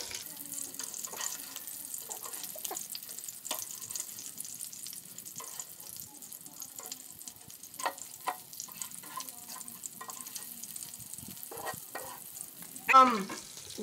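Cracker-crumb-breaded sunfish fillets frying in a pan, a steady sizzle, with scattered clicks and scrapes as the fillets are turned over.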